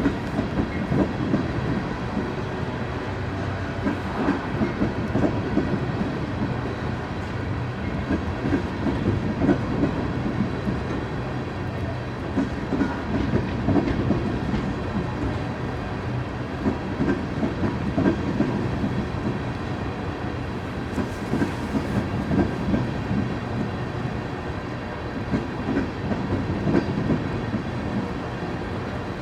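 Amtrak Empire Builder passenger train rolling past, its wheels clicking and clacking irregularly over the rail joints over a steady rumble of the cars.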